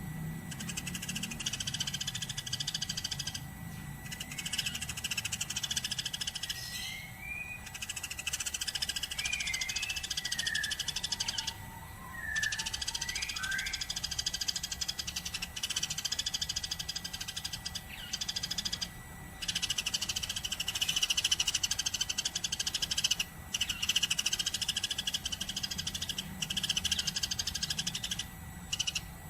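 Eurasian tree sparrows chirping in a fast, continuous chatter that breaks off briefly every few seconds, with a few short rising whistles about a third of the way in.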